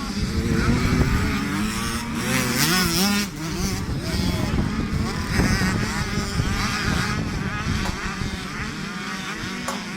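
Several youth motocross bikes racing, their small engines revving up and down and overlapping as they go round the track.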